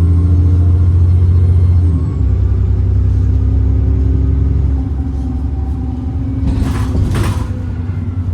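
Alexander Dennis Enviro 400 double-decker bus engine running under load with a high turbo whistle. About two seconds in, the engine note eases and the whistle falls away. Two short hisses come near the end.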